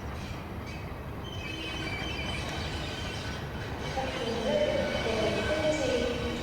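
Train running on the rails, a low rumble growing louder, with high-pitched wheel squeal setting in about a second in.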